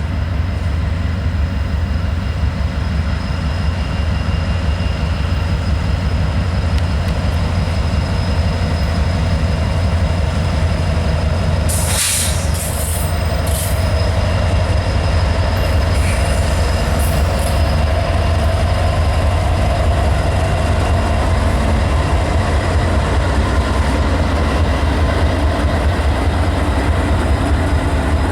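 Norfolk Southern freight train rolling past, its cars rumbling steadily on the rails with a thin high wheel squeal. A few brief, sharp high sounds come around the middle.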